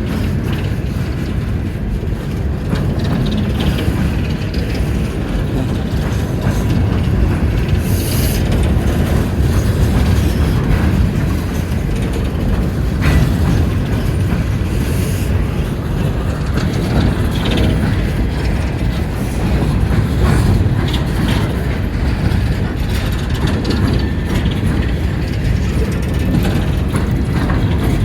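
Empty coal hopper cars of a freight train rolling past: a steady low noise of steel wheels on the rail, with scattered short clanks and rattles from the empty cars.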